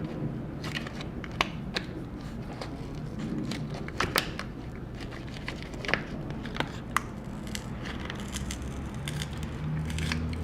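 A plastic pry tool working under a glued MacBook Pro battery cell, with irregular sharp cracks and clicks as the cell is levered off its adhesive.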